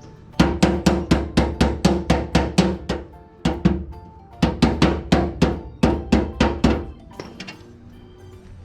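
Hammer striking sheet steel to shape a repair panel, fast even blows at about four to five a second in three runs with short pauses, each blow ringing, then a couple of lighter taps near the end.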